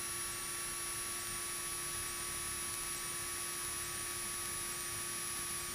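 Steady electrical hum and hiss of the cockpit intercom audio feed, with a few fixed tones under the noise.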